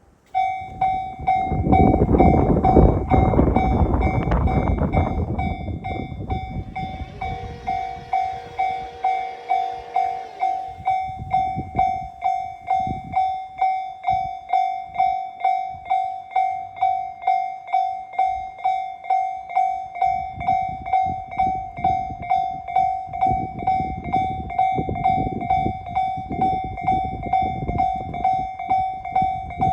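Railway level-crossing alarm ringing its electronic tone, pulsing about twice a second without a break. A loud rushing noise covers the first several seconds.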